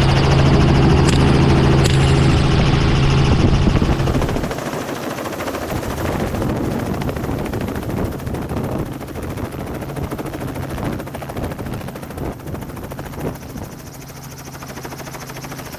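Helicopter engine and rotor running loud and steady, with two sharp rifle shots about one and two seconds in. After about four seconds the helicopter's steady tones fall away into a quieter, choppy rushing noise.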